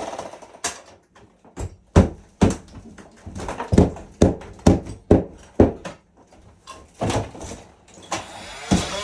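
Hard knocks of hand demolition work in a small tiled room, a steady run of blows about two a second for several seconds, with a few scattered knocks before and after. A power tool starts running again at the very end.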